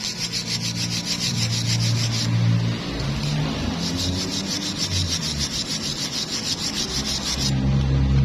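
Rhythmic rasping of an abrasive tool or file working metal, in two passes with a short break about two seconds in, over a low shifting hum.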